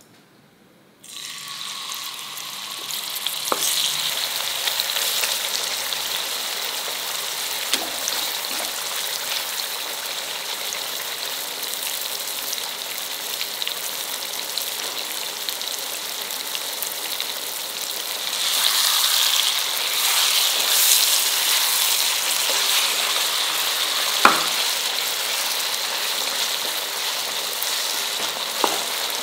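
Marinated chicken pieces sizzling in hot ghee in a kadai on a high flame. The sizzling starts suddenly about a second in and swells louder for a few seconds past the middle, with a single sharp knock later on.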